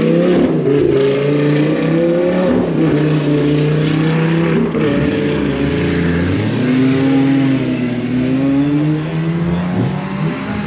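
Sports-car engines revving and accelerating, more than one at once, their pitch climbing, holding and dipping again.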